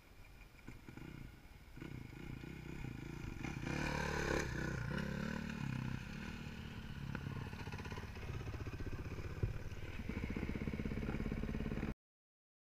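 Off-road dirt bike engine running, building up over the first couple of seconds and revving hardest about four seconds in, then running steadily until the sound cuts off abruptly near the end.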